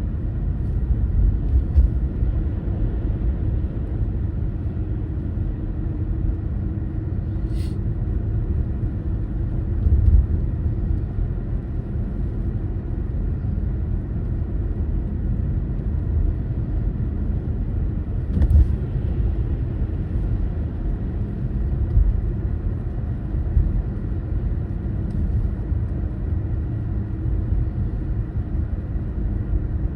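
Steady low rumble of a car driving, its road and engine noise, with two brief high clicks, one about eight seconds in and another a little past the middle.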